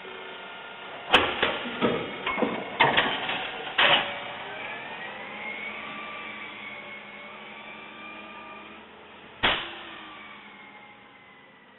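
Garbage truck at work: a quick run of metal clanks and bangs in the first few seconds, then a rising whine that holds steady. Another single loud bang comes near the end, and the whine then falls away.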